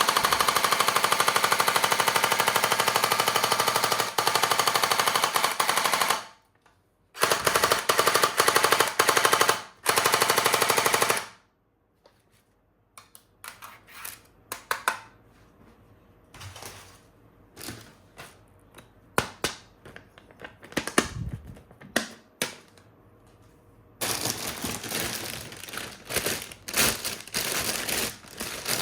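Toy gun firing a rapid machine-gun sound effect in long bursts, a few seconds each. In the middle stretch the bursts stop and there are scattered plastic clicks and knocks of the toy being handled, before another burst near the end.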